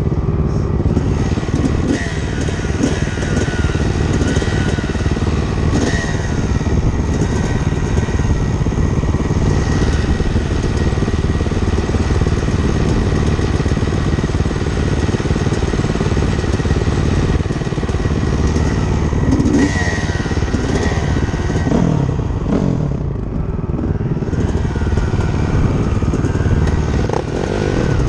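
Dirt bike engine running loud and steady while riding, its pitch rising and falling as it revs a few times in the last third.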